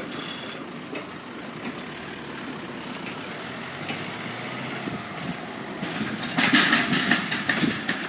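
Road vehicle noise at a level crossing, growing much louder with a rattling clatter about six seconds in as a vehicle passes close by.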